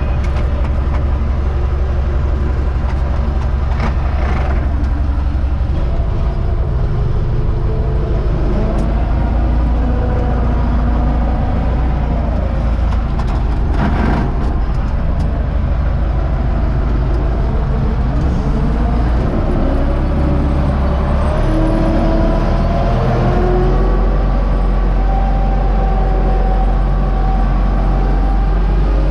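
U650 tractor's four-cylinder diesel engine running steadily under load while pulling a seed drill; its low note shifts twice, about six seconds in and again about twenty-one seconds in.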